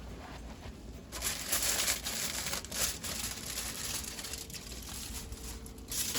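Aluminium foil crinkling as it is peeled back off a baking pan of chicken, starting about a second in and going on in irregular rustles.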